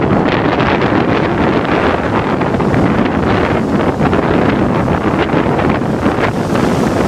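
Strong wind buffeting the microphone in a loud, steady rush, over the surf of big Lake Superior waves.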